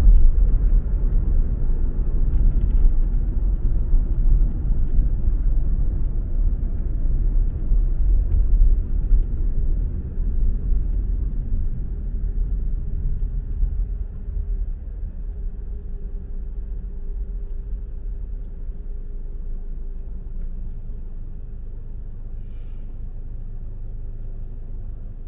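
Low, steady road and engine rumble of a car being driven, gradually getting quieter over the second half.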